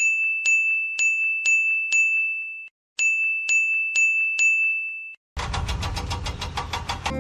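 A high bell-like ringing tone struck about twice a second, in two runs of about two and a half seconds with a short break between. Near the end it gives way to a loud, rapidly pulsing, motor-like rattle.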